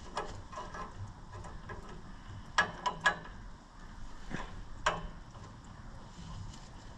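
Scattered metallic clinks and knocks of hand tools working on tractor engine nuts, with three sharp clinks in quick succession about two and a half seconds in and another near five seconds.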